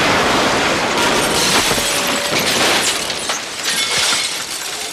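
Cartoon crash sound effect: a long jumble of smashing and shattering glass with many sharp impacts, thinning out toward the end.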